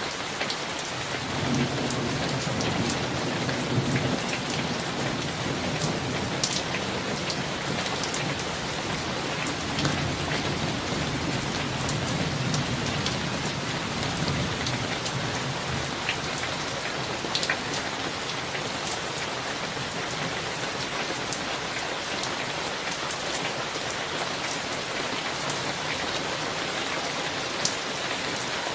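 Steady summer thunderstorm rain hissing, with scattered sharp drop ticks. A long low roll of thunder rumbles under it from about two seconds in until roughly halfway through, then fades.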